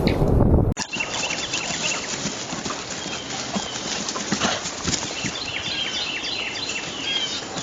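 A loud rushing noise cuts off abruptly under a second in. After it come irregular hoof knocks of a horse clopping, with short high bird chirps in bursts.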